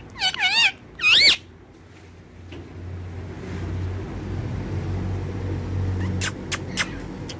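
Parrot giving two short warbling whistled calls in the first second and a half. A low rumble then swells for a few seconds, and a few short sharp clicks come near the end.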